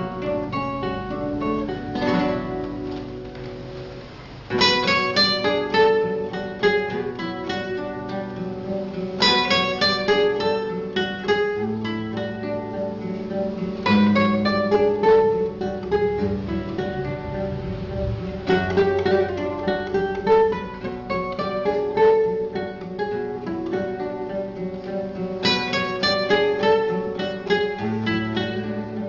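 Acoustic guitar music, instrumental: plucked melody notes over sustained chords, with a strummed flourish every four to five seconds. It is quieter for a moment before the first strum, about four seconds in.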